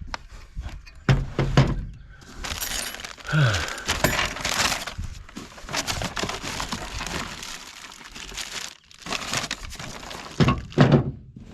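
Unpacking heavy fifth wheel hitch parts from cardboard boxes: cardboard and packing material rustling and scraping, broken by knocks and thunks as the heavy pieces are shifted, the loudest thunks about a second in and near the end.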